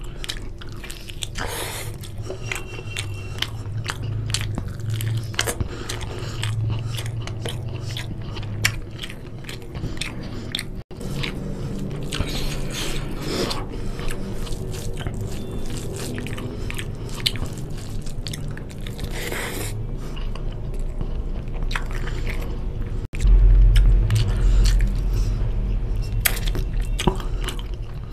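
Close-miked chewing and biting of a chicken drumstick and curry-soaked rice eaten by hand: wet mouth sounds and a dense run of small clicks. A louder, deeper stretch of chewing starts about four-fifths of the way through.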